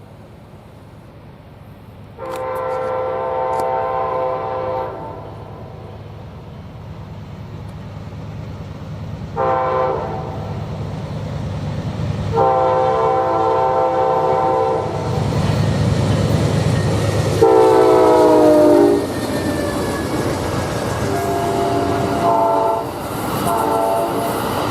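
Amtrak Auto Train's diesel locomotive sounding its multi-note horn in a series of long and short blasts as the train approaches and passes, over a rumble of engine and wheels that builds up. Near the middle, one blast slides down in pitch as the locomotive goes by, and the later blasts sound lower.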